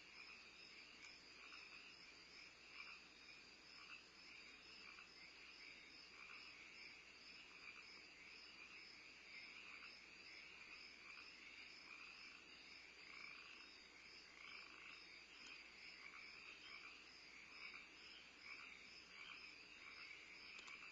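Faint night chorus of frogs and insects: a steady high insect trill under short frog croaks repeating about once a second.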